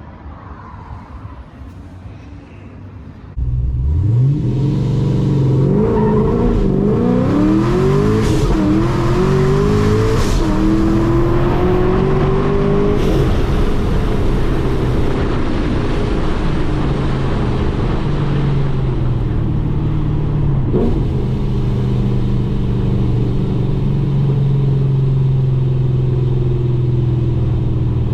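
Straight-piped, supercharged Camaro engine making a hard pull from about three seconds in. Its pitch climbs and falls back through several gear shifts, then settles into a steady lower drone as the car cruises.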